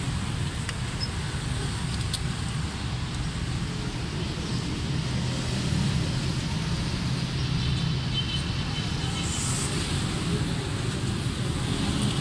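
Suzuki Mehran's three-cylinder petrol engine idling steadily during a tune-up, while its distributor is turned by hand to set the ignition timing.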